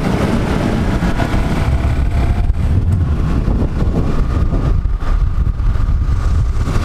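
Motorcycle riding up a hill road: engine running with a steady low rumble and wind noise on the microphone.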